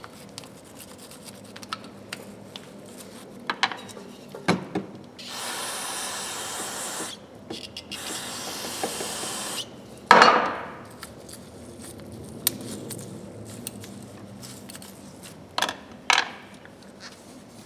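Two bursts of aerosol spray hissing, about two seconds each, as carburetor cleaner is sprayed on small steel ratchet parts to flush out old grease. A loud sharp metal knock with a short ring follows, amid small clicks and knocks of the parts being handled.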